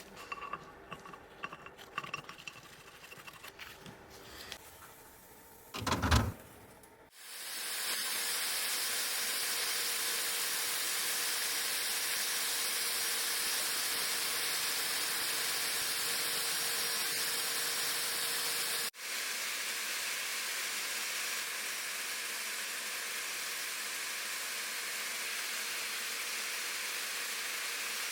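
Small handling clicks and a loud thump, then a long steady hiss of pressurised air or spray that starts about seven seconds in and breaks off for a moment about two-thirds of the way through before carrying on.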